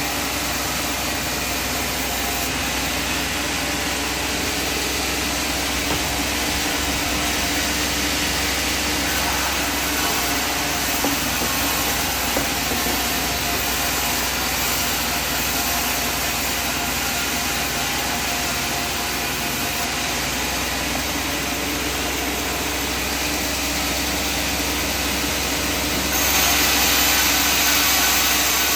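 Sawmill machinery running steadily with a constant engine-like hum. Near the end the sound steps up, louder and brighter.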